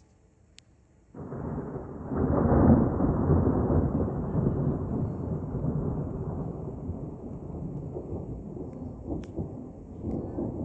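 Thunder: a clap breaks about a second in and swells into a long rolling rumble that peaks a second or two later, then slowly fades.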